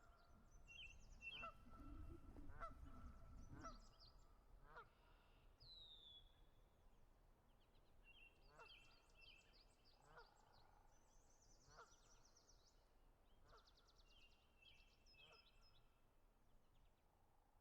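Faint bird calls: short honk-like calls repeating every second or two, with higher chirps and trills over them, and a low rumble about two to four seconds in.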